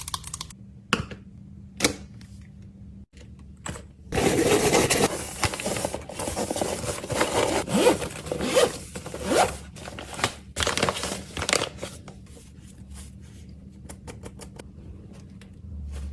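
Food packaging being handled and torn open: a dense stretch of tearing, scraping and rustling in the middle, with scattered light clicks before and after it.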